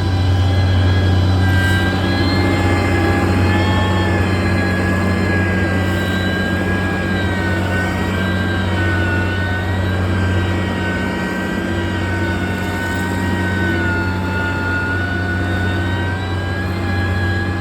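Heavy construction machine's diesel engine running steadily: a deep drone under a high whine that drifts slowly up and down in pitch.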